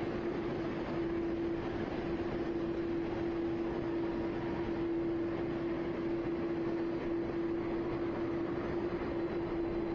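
Jet aircraft engines running steadily: a constant rushing noise with a steady droning tone, unchanging in level.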